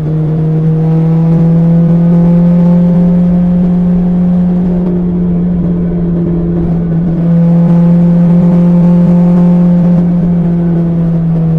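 BMW S1000XR inline-four engine running through an Akrapovic exhaust under way at a steady cruise. The throttle picks up about a second in, eases off around five seconds, picks up again around seven seconds and eases near the end.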